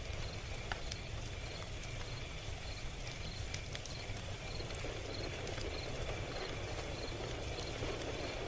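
Log fire burning with a low, steady rumble and scattered sharp crackles and pops. A faint high chirp repeats evenly about twice a second behind it.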